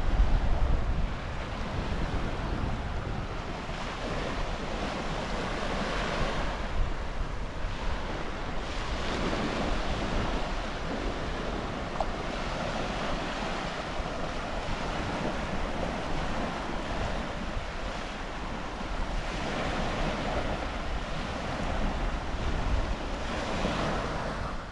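Surf breaking on a beach in strong wind, swelling and easing every few seconds, with wind buffeting the microphone.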